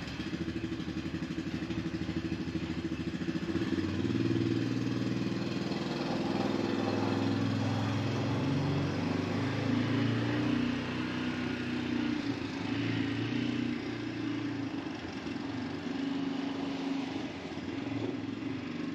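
Side-by-side utility vehicle's engine running as it is driven about, its pitch rising and falling.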